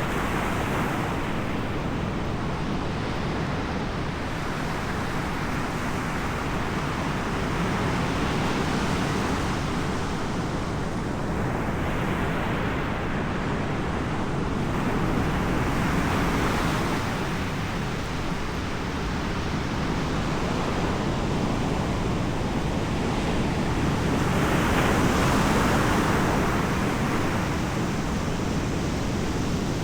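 Ocean surf breaking and washing ashore in slow swells every several seconds, with wind noise on the microphone.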